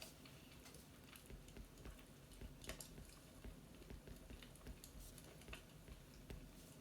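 Faint fireplace crackling: irregular small pops and snaps over a low, steady rumble.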